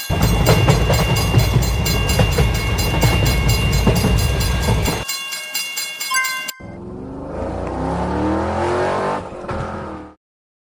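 Train sound effect: a loud rumble of a train running past, with a fast, evenly repeating ringing over it. About six and a half seconds in it changes to a sound with slowly rising pitch, which cuts off suddenly near the end.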